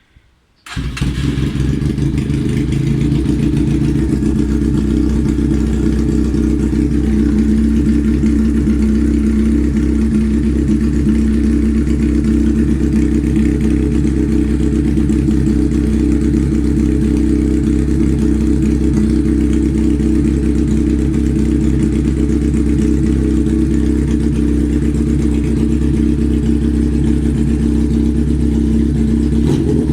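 Factory F370 motorcycle engine, coming in suddenly about a second in and then idling steadily.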